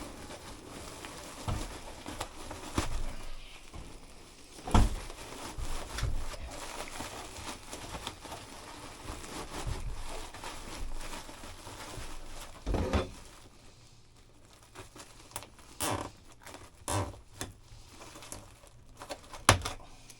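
Handling noise: irregular knocks and bumps with rustling and crinkling as a dehumidifier and its flexible duct are moved and fitted.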